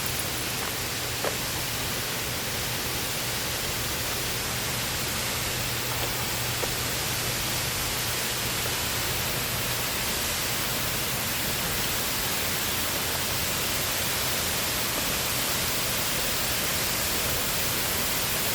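Steady rush of a waterfall, an even hiss of falling water that grows slightly louder.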